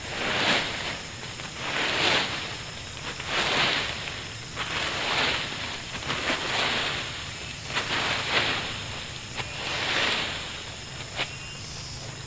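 Regular swishing strokes across leaf litter and ground, about one every second and a half, as the yard is swept clear.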